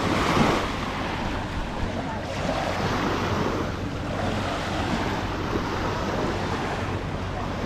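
Sea surf washing onto the beach in gentle swells, with wind buffeting the microphone.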